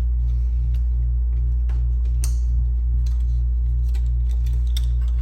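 Steady low electrical hum, with scattered light clicks and taps of small parts being handled and one short hissy scrape about two seconds in.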